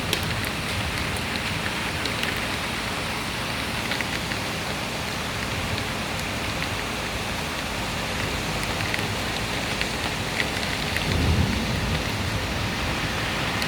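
Heavy rain falling steadily, drops pattering on hard surfaces with scattered sharper ticks. A low rumble of thunder swells briefly about eleven seconds in.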